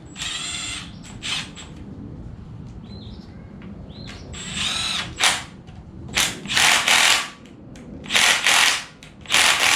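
Cordless impact tool running in several short bursts, some about a second long, as bolts are run in or out during engine assembly.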